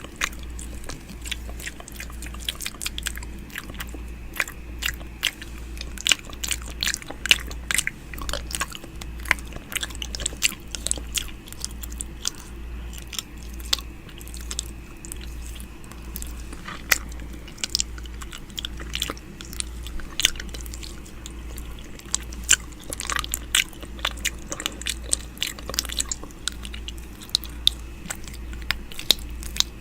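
ASMR 'ear eating' mouth sounds close to the microphone: a dense, irregular run of wet clicks, lip smacks and tongue noises, over a low steady hum.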